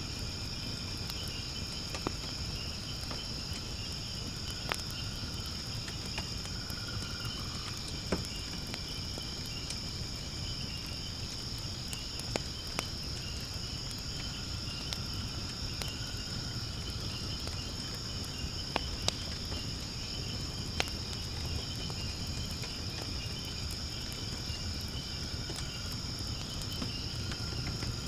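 Firewood burning in a fire-pit stand, a low flame rumble with sharp crackles and pops scattered irregularly, a dozen or so. Under it a steady high-pitched insect chorus of chirping crickets runs without a break.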